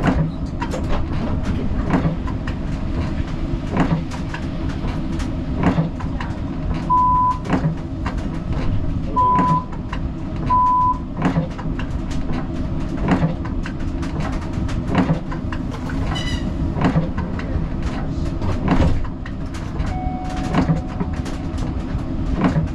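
Siemens Combino tram running, heard from the driver's cab: a steady rumble of wheels on rail with regular sharp clicks about every two seconds. Three short high beeps sound between about seven and eleven seconds in, with a brief ringing tone later on.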